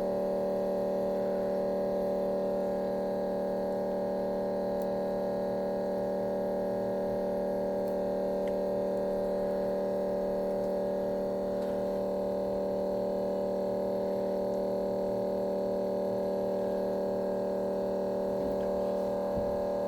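Steady electrical hum made of several fixed tones, running at an even level with no other distinct sounds.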